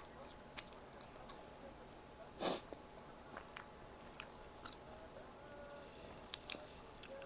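Close-miked chewing of food, with small scattered wet clicks from the mouth. One short, loud burst of noise comes about two and a half seconds in.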